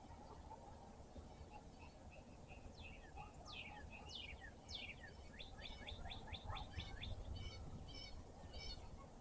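A songbird singing one varied phrase: a few short repeated notes, then several steep down-slurred whistles, a fast run of notes, and a few evenly spaced repeated notes near the end. A low steady rumble runs underneath.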